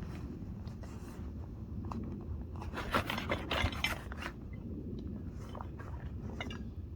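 A backpack being rummaged through: rustling, scraping and zip-like sounds close to the microphone, with a louder run of scrapes about three seconds in.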